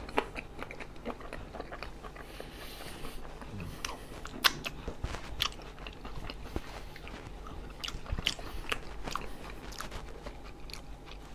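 A person chewing a mouthful of fish taco in a corn tortilla, with irregular short sharp clicks of mouth and food now and then.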